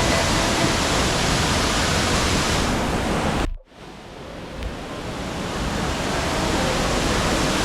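Waterfall noise, a steady dense rush of falling water. It cuts out suddenly about three and a half seconds in, then fades back up over the next few seconds.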